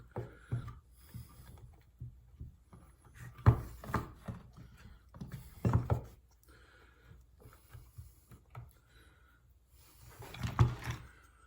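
Small parts of a headlight motor's gear assembly clicking and knocking as they are fitted by hand into the casing. The louder knocks come in clusters about three and a half seconds in, near six seconds, and near the end.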